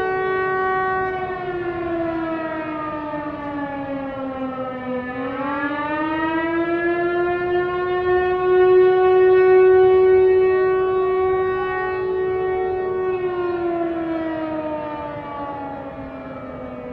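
Air raid siren wailing. Its pitch sinks about five seconds in, rises again and holds steady for several seconds, then starts to wind down near the end.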